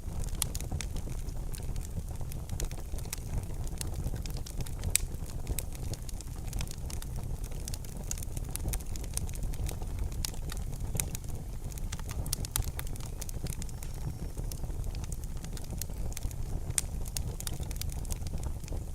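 Wood fire burning in a fireplace: frequent sharp, irregular crackles and pops over a steady low rumble.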